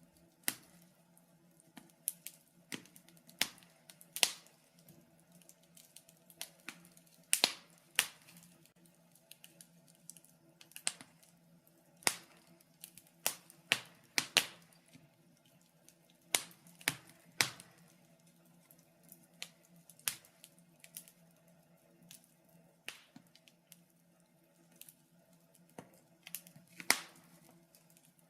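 Wood fire crackling in a fireplace: irregular sharp pops and snaps, several a second, some much louder than others.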